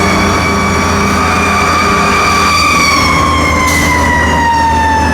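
Fire truck siren sounding one long tone that holds, then glides slowly down in pitch from about three and a half seconds in, over the steady low hum of the truck's engine. A brief hiss comes just before four seconds in.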